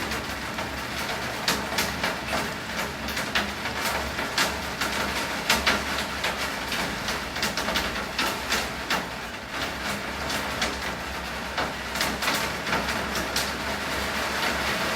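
Heavy rain falling, with many sharp, irregular drops hitting a hard surface close by over a steady low rumble.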